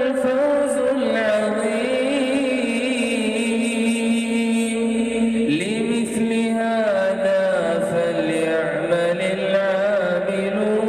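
A single man's voice reciting the Quran in a slow melodic chant. He holds long, ornamented notes and glides upward in pitch about halfway through.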